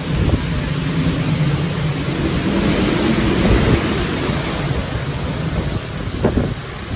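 Hurricane wind and rain, a loud steady rushing, with a low drone in the first few seconds.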